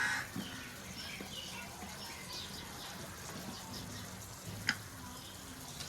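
Birds calling in the background: a crow caws at the very start, small birds chirp faintly throughout, and there is one short sharp call near the end.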